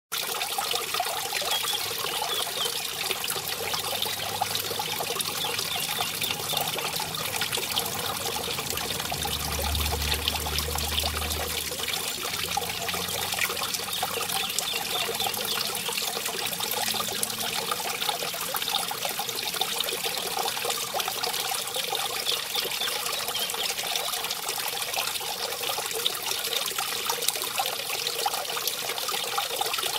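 Mountain stream splashing and trickling over a small waterfall, a steady rushing of water.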